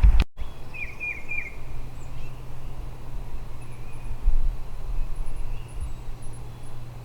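Outdoor ambience: a songbird gives three quick chirps about a second in, and faint high bird notes follow, over a steady low hum and low rumbling wind noise.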